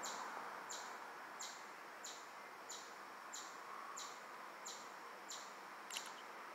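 A bird's short, high chirp repeated very evenly, about every two-thirds of a second, over a faint steady outdoor hiss; a couple of brief clicks about six seconds in.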